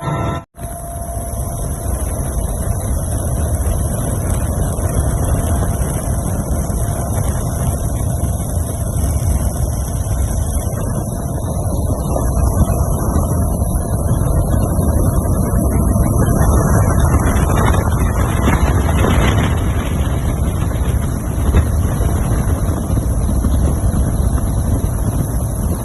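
Steady engine noise with wind buffeting the microphone, cutting out briefly just after the start.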